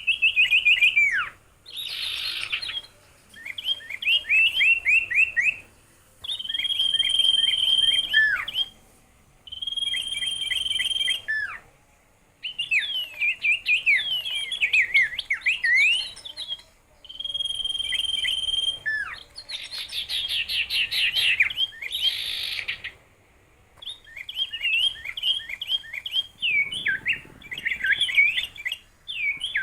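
A songbird singing in bouts of one to three seconds with short pauses between them: fast trills, quick falling notes and held high whistles, with a few harsh, rasping phrases mixed in.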